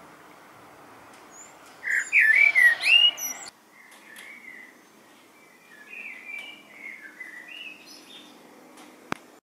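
A songbird singing loud whistled, warbling phrases close by, stopping abruptly about three and a half seconds in. Fainter bird chirps and warbles follow over a quiet background hiss, with a single sharp click near the end.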